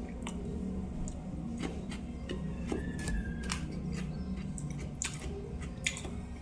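Close-up eating sounds: chewing with scattered wet mouth clicks and smacks over a low steady hum.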